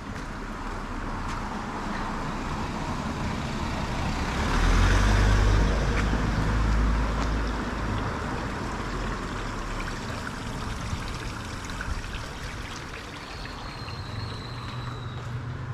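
Street traffic noise, with a motor vehicle passing close and rumbling loudest about four to seven seconds in before fading back into the general traffic hum.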